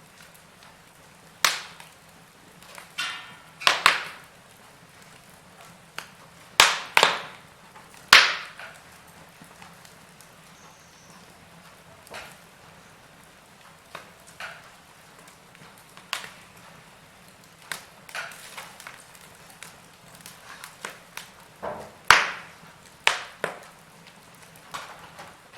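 Wood fire crackling in a fireplace: irregular sharp pops and snaps, a few of them loud cracks, over a faint steady hiss.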